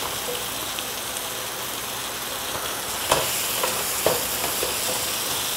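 Onion, tomato and spice base sizzling steadily in hot oil in a pan, with two short knocks of the stirring spoon about three and four seconds in.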